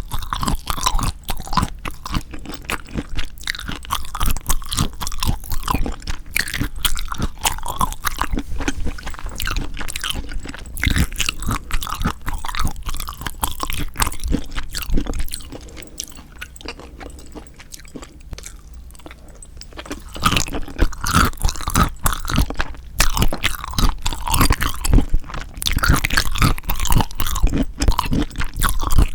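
Eating of spicy marinated raw shrimp: steady close-up chewing with many small wet clicks and smacks, dropping quieter for a few seconds past the middle before picking up again.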